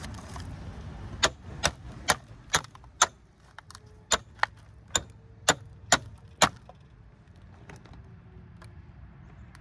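About eleven sharp metallic strikes, roughly two a second with one short pause, from about a second in until about six and a half seconds, then they stop. The strikes are on a copper transformer winding, working its first layer loose.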